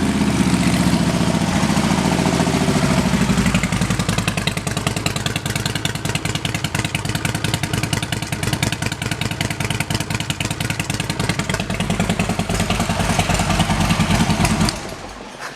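A 2011 Harley-Davidson Electra Glide Ultra Limited's 103 cubic inch V-twin idling through Rinehart exhaust pipes just after starting. It runs loud and full for the first few seconds, then settles into a steady, lumpy idle. It swells briefly again before the engine is shut off near the end.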